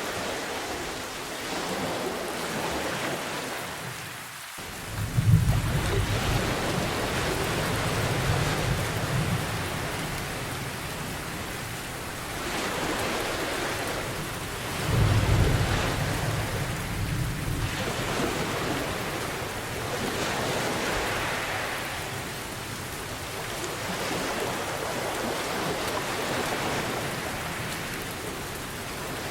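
Steady heavy rain with surf swelling and falling under it. Two low rolls of thunder: the first comes in abruptly about four seconds in, the second about fifteen seconds in.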